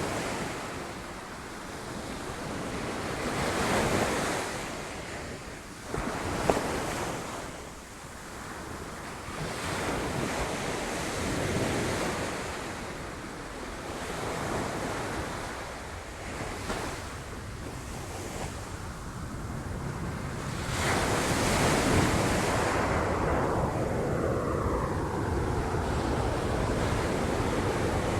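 Sea waves breaking on rocks, swelling and falling back every few seconds, with one sharp crack of spray about six seconds in and a longer, louder surge from about three-quarters of the way through. Wind buffets the microphone.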